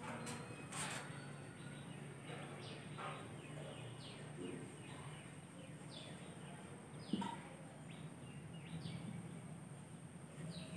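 Small birds chirping, short falling chirps repeated irregularly, with a soft knock about seven seconds in.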